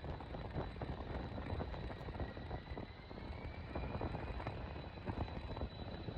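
Distant jet engines of an RCAF C-17 Globemaster III, four Pratt & Whitney F117 turbofans, powering up on its takeoff roll. A low rumble with a faint whine that rises in pitch around the middle.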